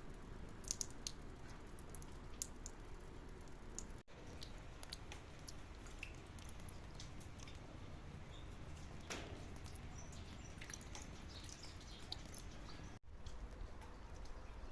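Light rain, with scattered drops ticking and dripping over a low steady rumble. The sound cuts out for an instant twice.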